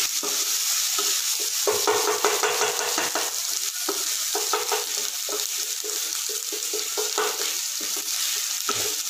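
Chopped onions and ginger-garlic paste sizzling in hot oil in a non-stick kadai, stirred with a wooden spatula that scrapes across the pan in short, irregular strokes over a steady frying hiss.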